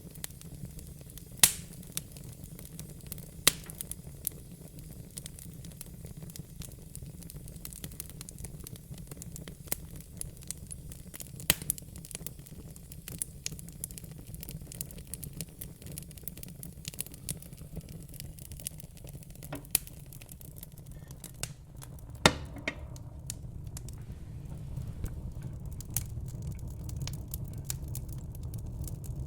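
Fire crackling: a steady low rumble with scattered sharp pops and snaps, a few louder pops several seconds apart.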